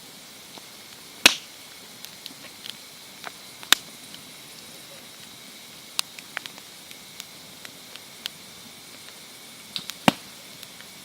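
Campfire crackling: a low steady hiss with irregular sharp pops and snaps, a few of them louder, about a second in, near four seconds and near the end.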